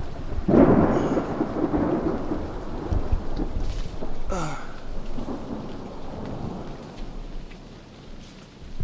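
Thunder rumbling, loudest about half a second in and fading away over several seconds, with a second swell around four seconds in, over steady heavy rain falling on the tent.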